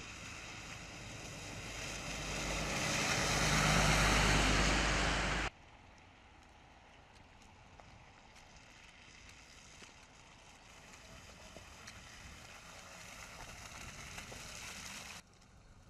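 Road traffic noise: a vehicle passes close, growing louder and then cutting off suddenly about five seconds in, followed by quieter, slowly rising traffic noise that also cuts off suddenly near the end.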